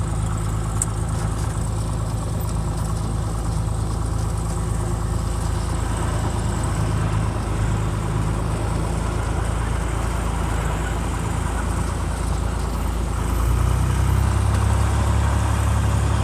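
Cessna 182's piston engine and propeller heard from inside the cabin, running steadily; about 13.5 s in the engine note shifts lower and grows a little louder, a change in power.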